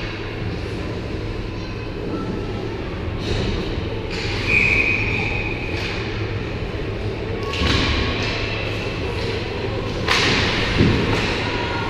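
Ice hockey play echoing in an arena: sharp knocks and thuds of pucks, sticks and players hitting the boards, over steady rink noise, with a short high-pitched tone about four and a half seconds in.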